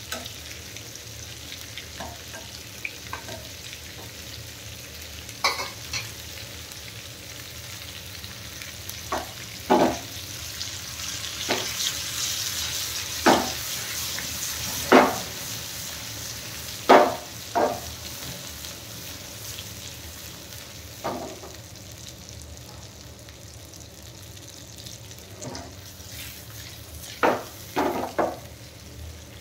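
Whole stuffed tinde (apple gourds) and onions sizzling as they fry in mustard oil in a steel kadai, the sizzle swelling louder around the middle. A flat metal spatula scrapes and knocks against the pan about a dozen times as the vegetables are turned.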